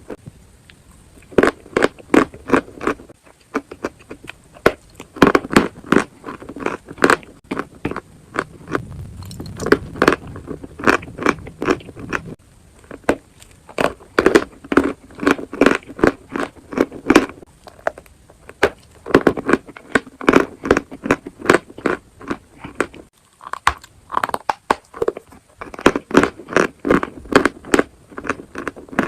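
Close-miked biting and chewing of dry eating chalk and clay, in runs of rapid crunches broken by short pauses.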